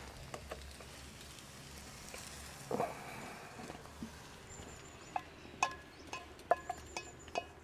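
Light metallic clinks of camping cookware and utensils being handled, a handful of sharp clicks that each ring briefly, starting about five seconds in.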